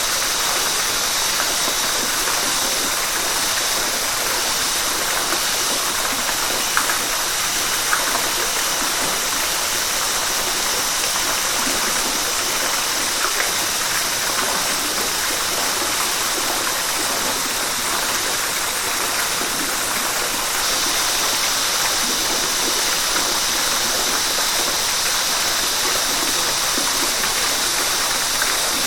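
River water flowing in a steady, continuous hiss, with a couple of brief splashes about a quarter of the way through and a slightly brighter hiss from about two-thirds in.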